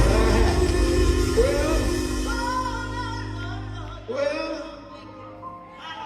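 Live gospel band music: long held chords under a man's singing voice, growing steadily quieter through the second half.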